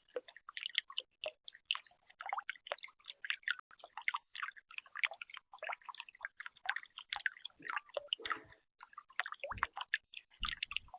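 Water splashing and dripping in a backyard bird bath: a dense, irregular patter of small splashes, with a few low bumps in the last few seconds.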